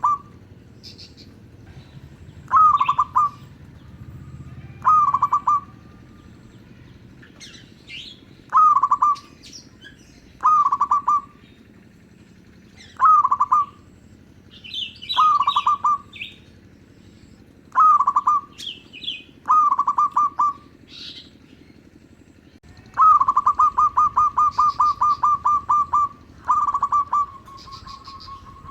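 Zebra dove (perkutut) cooing: short phrases repeated about every two seconds, then near the end a longer rapid run of quick notes. Fainter high chirps from other small birds come between the phrases.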